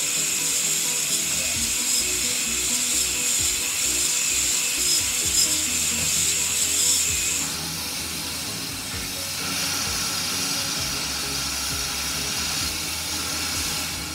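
A steam tank locomotive standing with steam hissing steadily; the hiss eases off about halfway through. Background music plays underneath.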